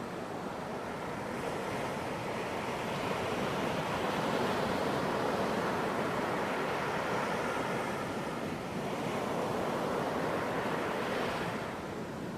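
Ocean surf on a beach: waves breaking and washing in, the rush swelling after a couple of seconds and easing off near the end.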